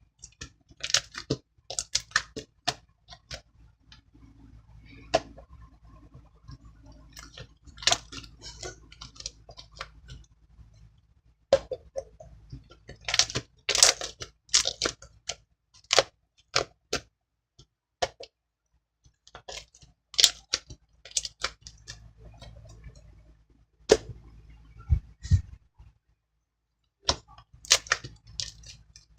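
Slime being squished and stretched by hand, making irregular sharp clicks, pops and crackles in clusters, with short pauses in between.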